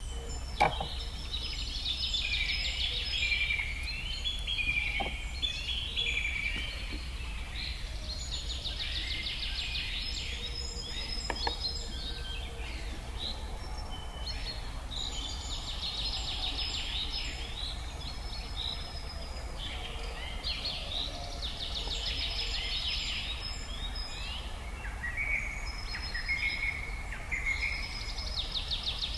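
Songbirds singing, with a phrase of quick trills and chirps that repeats every six seconds or so over a steady low hum. A few faint clicks are heard, the first about half a second in.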